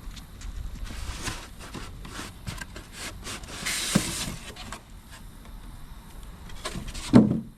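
Cardboard packaging of an outboard motor being opened and handled: scattered clicks and scrapes, a longer rasping noise about four seconds in, and a louder knock near the end.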